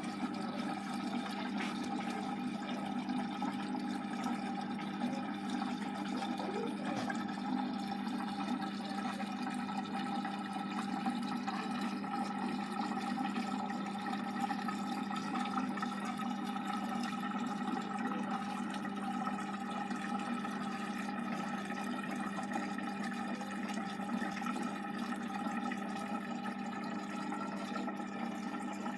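Hotpoint HE8L493 washing machine mid-cycle: water rushing through the machine over a steady hum.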